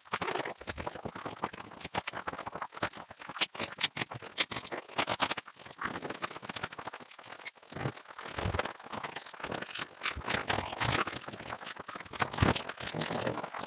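A new truck-mounted awning being set up by hand: fabric rustling and scraping, with many irregular clicks and knocks from its poles and fittings.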